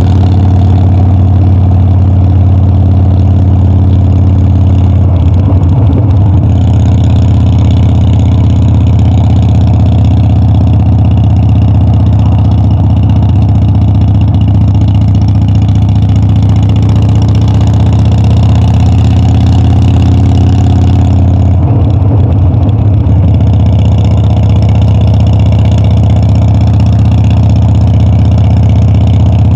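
Harley-Davidson Dyna's air-cooled 45-degree V-twin running loud and steady under way, with two brief changes in the note about five seconds in and about two-thirds of the way through.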